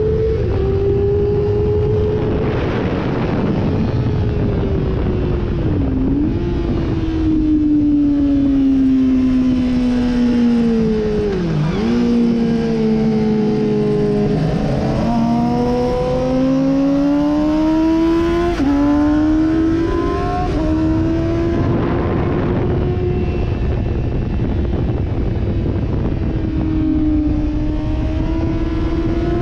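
Sportbike engine under hard riding on a race track. The pitch falls as the bike slows, with quick dips around six and twelve seconds in, then climbs again in steps broken by short drops as it shifts up through the gears, with heavy wind rush throughout.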